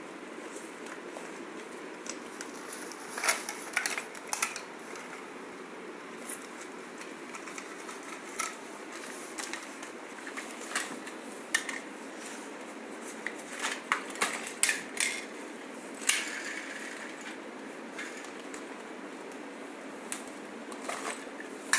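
A pack of small toy cars being opened and handled: scattered clicks, crackles and light knocks over a steady background hiss, the sharpest clicks about three to four seconds in and around fifteen to sixteen seconds.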